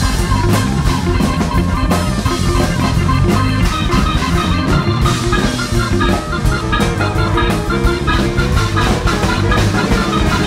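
Large free-jazz big band playing live: drums keep a busy, steady beat under keyboard and guitar.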